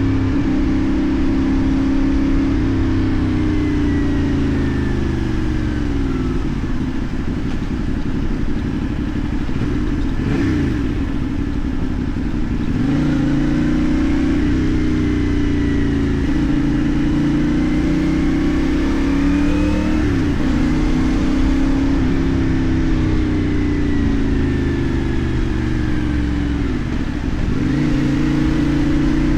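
CF Moto 450NK's parallel-twin engine running under way, its pitch climbing with the throttle and dropping back several times as the rider shifts gears and eases off, over steady wind and road noise.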